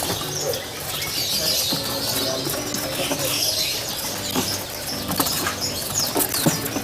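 Many caged songbirds chirping and whistling together in a bird market, a dense overlapping chorus with scattered sharp clicks and rustles from the cages.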